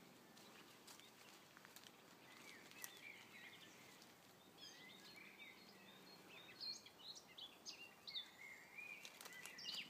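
Faint songbird chirping: short quick notes, sparse at first and more frequent in the second half, with a few light clicks.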